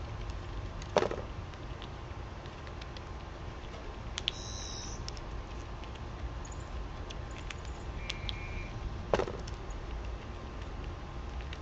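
Backyard ambience at a bird and squirrel feeding spot: a low steady rumble with scattered small ticks, two short high bird chirps in the middle, and two sharper knocks, one about a second in and one late on.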